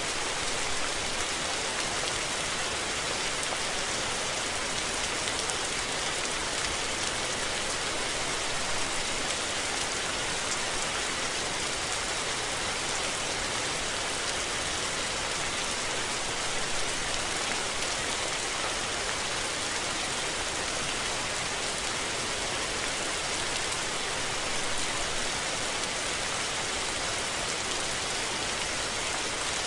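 Steady rainfall: an even hiss of rain falling on surfaces, with no change in strength.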